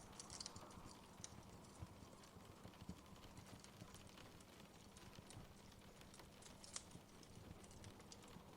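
Faint wood fire crackling: irregular small snaps and pops over a low, soft rumble of flames, with a sharper pop about two-thirds of the way through.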